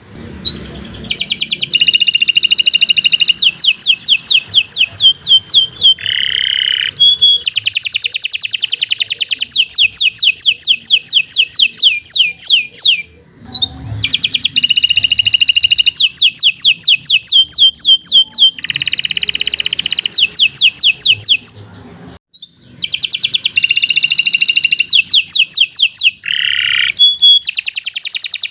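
Domestic canary singing a long, continuous song of rapid trills and fast repeated notes, high-pitched, broken by a few short pauses.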